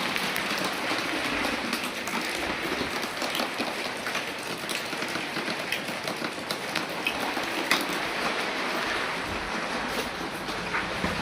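Heavy rain falling steadily, with many sharp drop impacts scattered through it.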